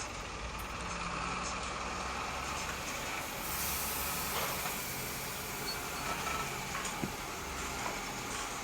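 Radio-controlled Bruder model truck running with a steady engine-like drone.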